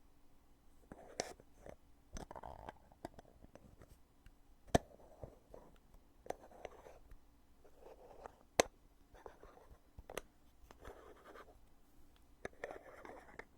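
The heavy lid of a foundation container being opened and closed again and again: sharp clicks, the two loudest about five and nine seconds in, with soft rubbing and scraping sounds between them.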